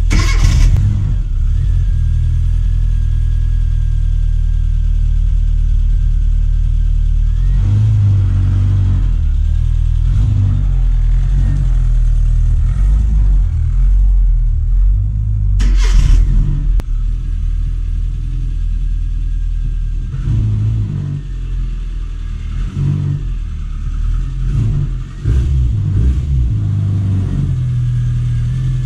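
1997 Rover Mini Cooper MPI's 1275 cc A-series four-cylinder engine running, its revs rising and falling several times. Two brief sharp bumps, about a second in and about halfway through, stand out over the engine.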